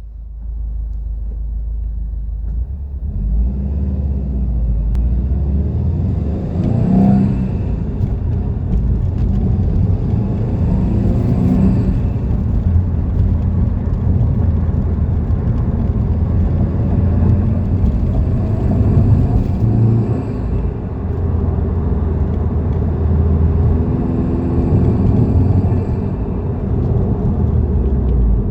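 2017 Subaru WRX STI's turbocharged flat-four engine running, its pitch rising and falling several times, with a whistle and hiss over it that the owner fears is a boost leak and the dealer calls normal.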